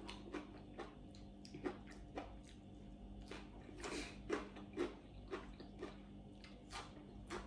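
A person eating: chewing with irregular soft mouth clicks and smacks, over a faint steady hum.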